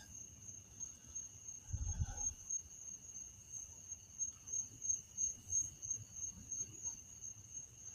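Insects trilling faintly: a steady, high, pulsing trill with a lower second tone beneath it.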